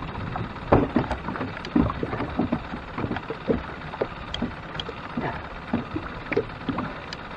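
Irregular splashing and knocking in a small fishing boat while a hooked catfish is fought on the line: several short knocks and splashes a second, uneven in strength.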